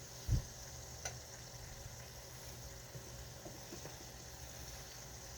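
A pot boiling steadily on the stove. There is a dull low thump just after the start and a light click about a second in.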